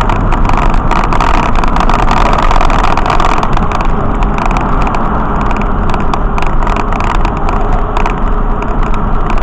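Loud, steady road and wind noise of a vehicle in motion.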